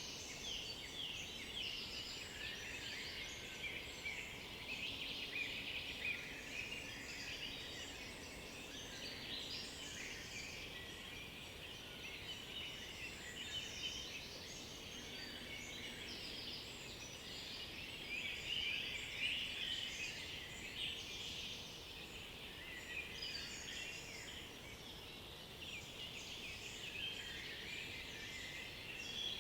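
A chorus of many songbirds singing at once, with short overlapping songs and calls continuing throughout, some louder phrases standing out near the middle and towards the end.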